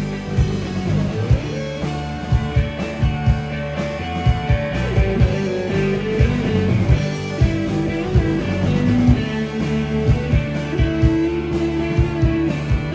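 A live rock band playing an instrumental break: guitars over bass and a steady drum beat.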